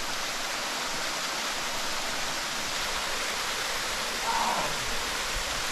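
Steady rushing of a small waterfall and mountain stream, water pouring over rocks as an even hiss.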